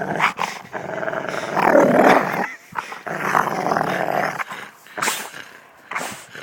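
A dog growling in rough play, in two long rasping stretches over the first four seconds or so, loudest about two seconds in, then two short sharp sounds near the end.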